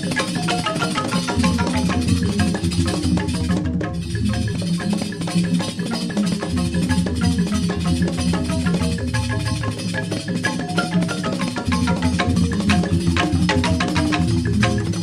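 Balinese joged bumbung bamboo gamelan playing: bamboo tube xylophones struck in fast, dense interlocking patterns over a sustained low bamboo bass, with drums.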